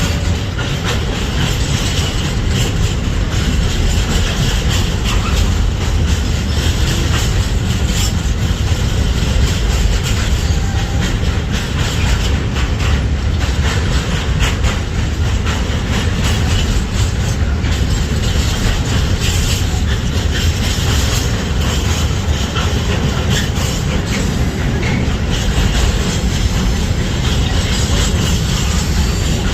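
Intermodal freight train rolling steadily past: a continuous loud rumble of wagon wheels on the rails, with a dense run of clicks from the wheels over the rail joints.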